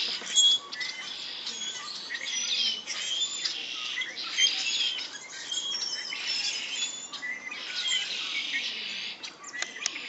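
Several small songbirds chirping and calling at once, a dense chorus of short, high chirps and quick whistled glides that overlap without pause.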